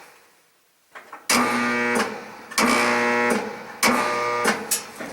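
Motor of a 1976 Westinghouse electric dryer buzzing in three short bursts as the start is tried, stalling each time without getting up to speed. This is a hard start caused by a worn bronze motor bushing that lets the shaft tilt.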